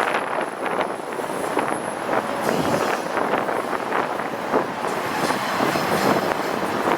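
Long intermodal freight train's cars rolling past, steel wheels clattering and rumbling over the rails in an irregular stream of clunks.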